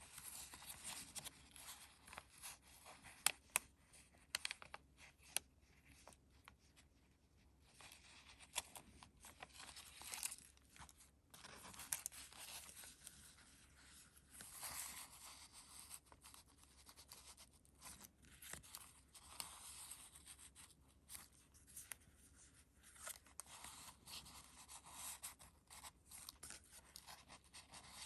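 Pages of a handmade paper junk journal being turned and handled: paper rustling and crinkling in repeated swishes, with many small clicks and taps.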